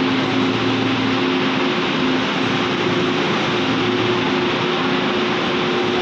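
Train at a station platform: a steady, loud rushing noise with a low hum that fades in and out.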